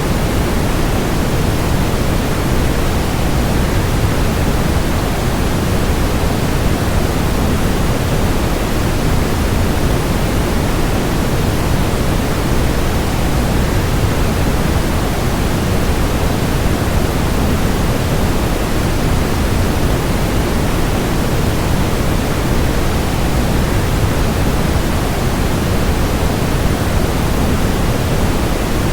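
Steady rush of a waterfall: an even, unbroken noise of falling water, heavier in the low end, with no change in level.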